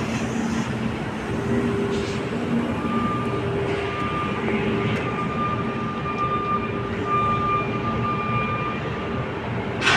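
Heavy engine and industrial machinery running steadily, with a thin whine that comes and goes, and a short loud burst of noise near the end.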